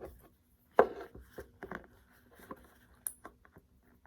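Handling noise while shoe glue is smeared onto a shoe with a small wooden stick: a scatter of short clicks and light taps, the sharpest about a second in.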